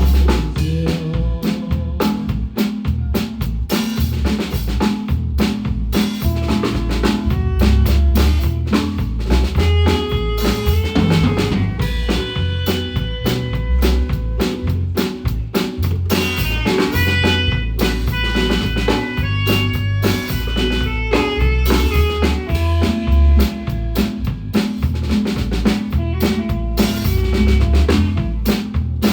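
A Guatemalan marimba band playing a tune with a drum kit, with snare and rimshot hits and bass drum under a bass line and quick repeated marimba notes.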